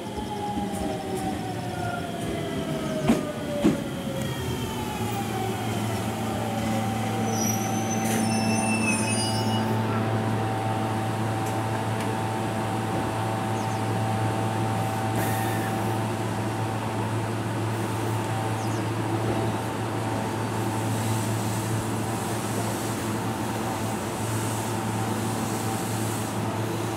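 JR Shikoku 7000 series electric train braking into a station: its motor whine falls in pitch over the first few seconds, with two sharp clicks, and a brief high squeal as it comes to a stop. Standing at the platform, it then gives off a steady low hum with higher steady tones over it.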